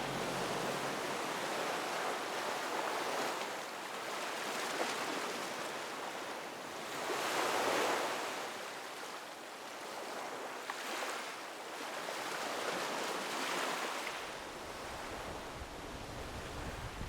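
Sea water washing past a sailboat's hull in ocean swell, a rushing noise that surges and fades every two to three seconds, loudest about halfway through.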